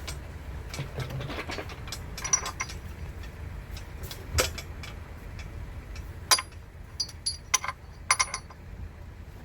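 Hand tools and metal parts clinking and knocking against each other in scattered, irregular strikes, several with a brief high metallic ring, over a steady low hum.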